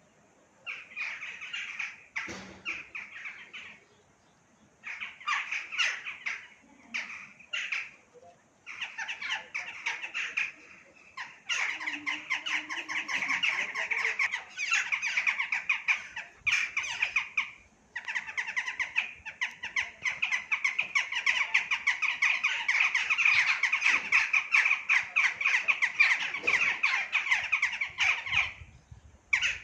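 Birds chattering in quick runs of short squeaky calls, in bursts of a few seconds with pauses, then an unbroken stretch of about ten seconds.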